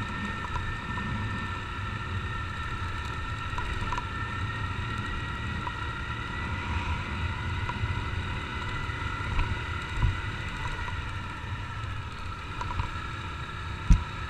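Honda CG 150 Titan's single-cylinder engine running at a steady cruise on the road, mixed with wind rush on a helmet-mounted camera. Two sharp thumps stand out, one about ten seconds in and a louder one near the end.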